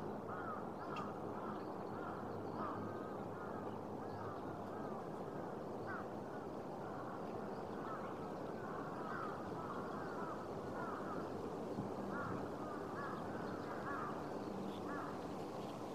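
Birds calling again and again in short rising-and-falling notes over a steady background noise.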